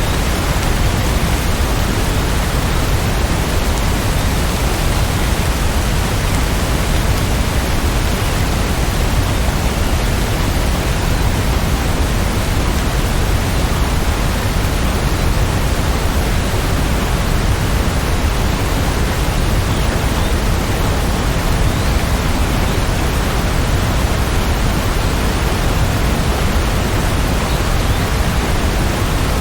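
Steady rain falling: an unbroken, even hiss with a strong low rumble beneath it, without single drops, thunder or any change.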